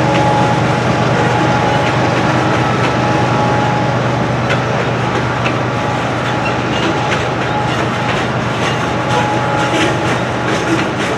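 Norfolk Southern coal train rolling past, a steady heavy rumble of wheels on rail with sharp clicks over the joints, the clicks coming more often near the end.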